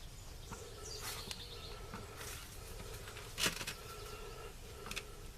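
Faint birds chirping over a low steady hum, with a sharp click about three and a half seconds in and a smaller one near the end.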